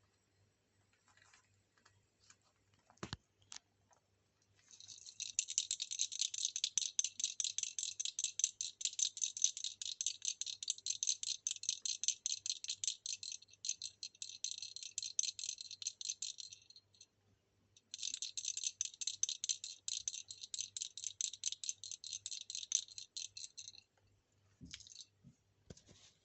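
Fast, even rattling made of many small sharp clicks, in two long bouts of about twelve and six seconds with a brief stop between them. A single sharp knock comes just before the first bout, and a few soft thumps come near the end.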